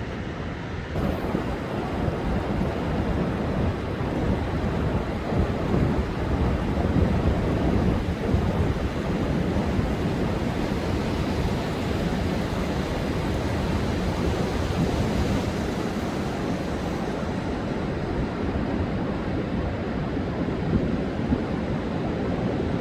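Heavy storm surf crashing continuously on a sandy beach, with strong wind buffeting the microphone. It swells louder about a second in.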